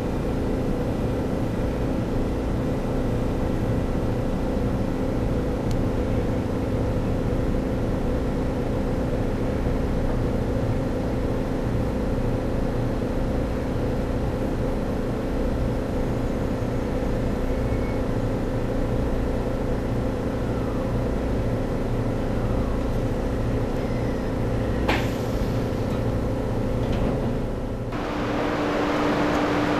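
300 series Shinkansen train running, heard from inside the carriage as a steady rumble with a low hum, and a single clank about 25 seconds in. Near the end the sound cuts to an even hiss with a steady hum, from the train standing at the platform.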